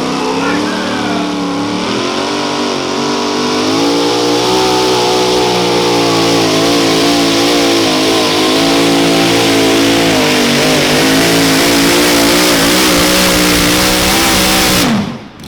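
Mini modified pulling tractor's engine running at high revs during a pull. Its pitch climbs over the first few seconds, then holds high with small wavers, and it cuts off abruptly near the end.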